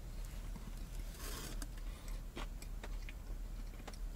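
A person chewing a bite of a breakfast sandwich: soft mouth clicks and smacks, with a short rustle a little over a second in, over a low steady hum.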